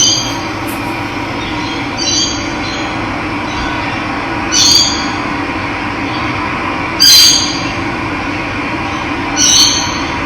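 Steady running water, with a bird giving a short call five times, about every two and a half seconds.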